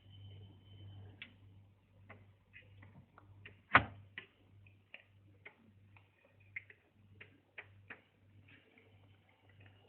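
Irregular light clicks and taps, one much louder about four seconds in, over a faint low hum that pulses about twice a second.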